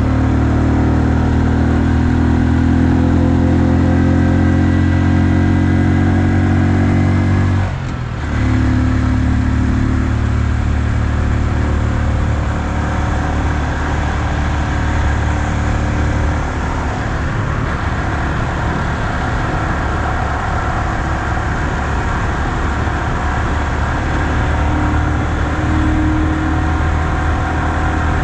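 A 2020 Honda Super Cub's single-cylinder engine running at a steady pace on the road. The engine note briefly dips about eight seconds in, as at a gear change, and then holds steady again.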